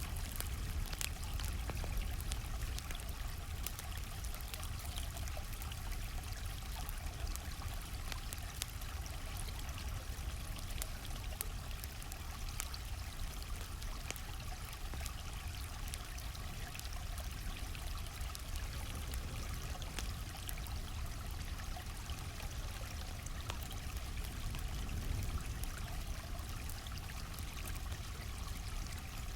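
A stream flowing steadily, with a campfire crackling over it in scattered small, sharp pops.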